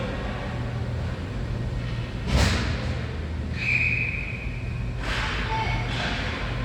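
Ice hockey rink: a loud thump about two seconds in, then a referee's whistle blown once for under a second, over a steady low rink hum.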